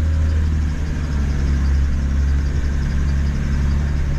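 Old Land Rover TDI turbodiesel engine running steadily in low-range second gear on a descent, a deep even drone.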